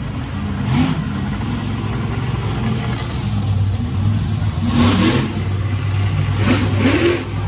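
Monster truck engine running in the arena, revved up in short rising bursts about a second in, around five seconds in, and again near the end.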